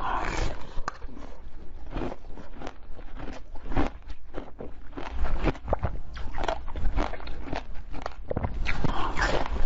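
A person biting and chewing food: a dense run of sharp, crackling mouth clicks and wet chewing, louder at the start and again near the end.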